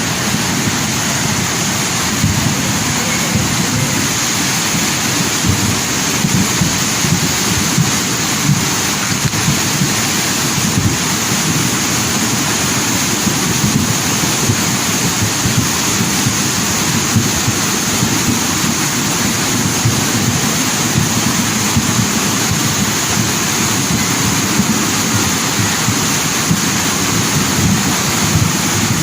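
Loud, steady rushing noise of water, unchanging throughout.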